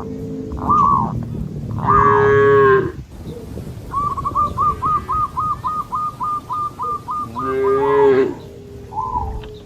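Cattle mooing: two long, deep moos, one about two seconds in and another about seven and a half seconds in.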